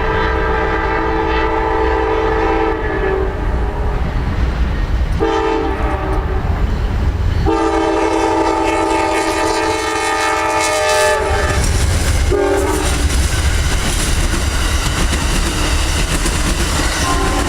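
Locomotive multi-chime air horn sounding in blasts over the rumble of a passing train, with wheels clicking over the rail joints. One blast ends about three seconds in, a short one follows a couple of seconds later, then a long one of about four seconds and a last brief toot.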